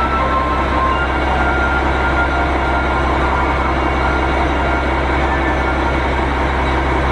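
Steady train noise: a dense, even rumble of a train running on the rails, with a constant low hum and faint brief tones in the first second.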